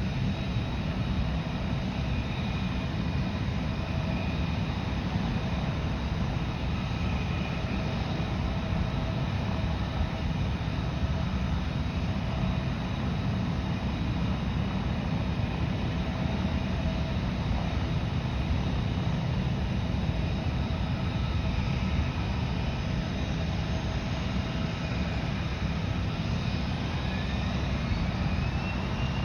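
Aircraft turbine engines running with a steady rumble and several steady whining tones. About 25 seconds in, a whine starts to rise steadily in pitch as an engine spools up.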